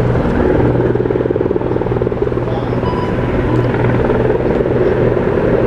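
Helicopter flying overhead: a loud, steady rotor chop, even and rapid.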